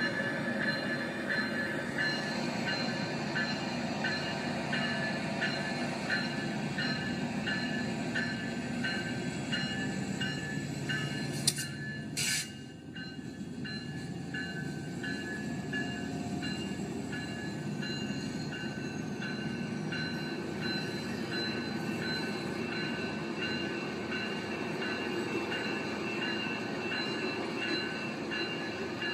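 A train rolling past: a steady rumble of rail cars with high, squealing tones from the wheels that pulse at a regular beat. There is a single sharp knock about twelve seconds in.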